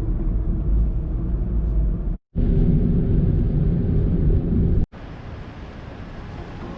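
A car driving: steady engine hum and road rumble, cut off abruptly twice, with a quieter steady hiss after the second cut.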